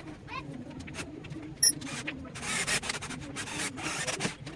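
Several rough rubbing strokes on wood, like hand sanding or rasping of MDF, with a sharp click a little before the first of them.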